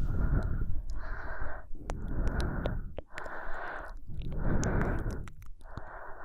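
Close-miked slow human breathing in and out, about six separate breaths, each lasting under a second, with tiny mouth clicks between them.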